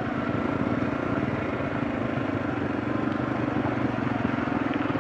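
Kawasaki KLX230's single-cylinder engine running steadily as the motorcycle rides down a dirt track, a little louder in the first second and then even.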